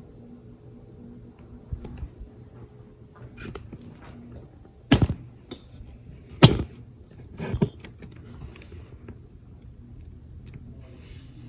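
Vintage Sears ceiling fan motor running with a steady low hum. Three sharp knocks come about five, six and a half, and seven and a half seconds in.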